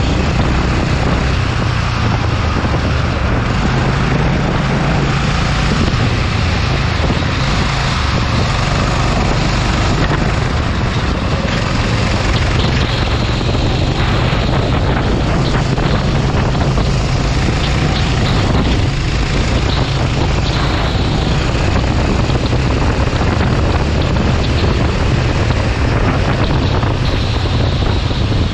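Go-kart engine running hard through a lap, its pitch rising and falling with the throttle, with wind buffeting the microphone.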